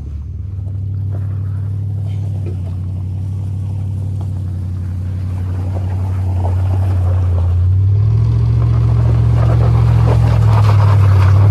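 SUV engine running under load while it drags a wrecked SUV along on a tow chain; about eight seconds in, it revs higher and gets louder.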